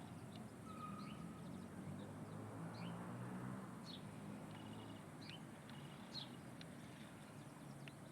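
Small birds chirping: scattered short, high calls and one brief whistle, over a faint low steady hum.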